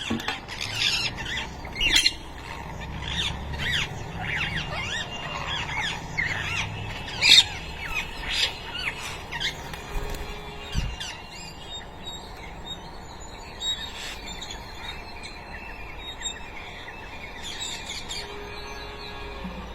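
Ringneck parakeet chicks squawking and chirping while being fed soft food: a dense run of short, shrill calls that thins out to occasional quieter calls about halfway through.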